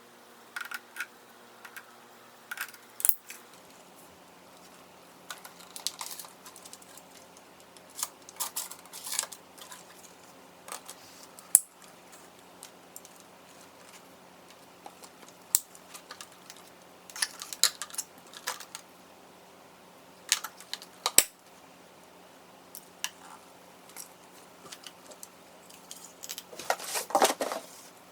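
Unboxing and handling a cordless stick vacuum: scattered clicks, knocks and rustles of packaging and plastic parts, with a longer rustle near the end.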